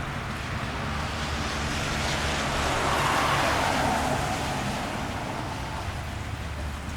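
A car passing on a wet street: tyre hiss swells to a peak about halfway through, then fades, over steady rain.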